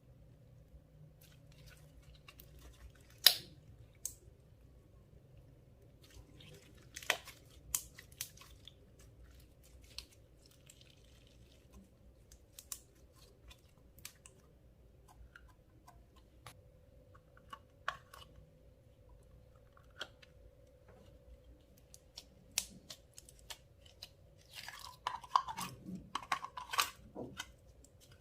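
Clear slime being worked by hand, giving scattered small wet clicks and crackles, with one sharp loud click about three seconds in and a denser run of squelching pops near the end.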